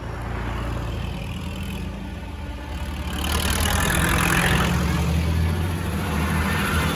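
Modern farm tractor's diesel engine running as it drives past, growing louder about three seconds in as it comes close.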